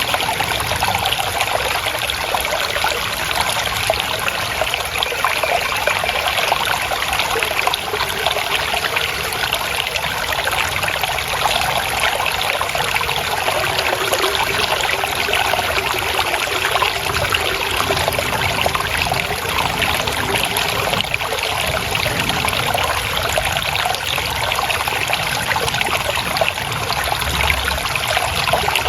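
Water trickling and gurgling steadily in a stream, an unbroken splashing rush.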